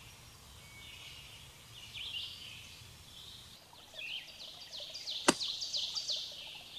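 Songbirds chirping in quick runs of short, high, falling notes, sparse at first and busiest in the second half, over a faint steady hiss, with a single sharp click about five seconds in.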